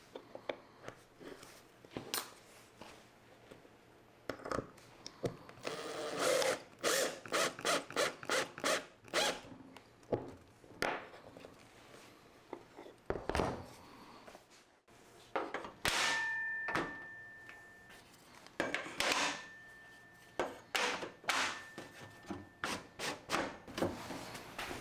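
Woodworking on wooden parts: a run of knocks and short rubbing strokes, quickest and loudest a few seconds in, then a thin steady whine on and off with more knocks.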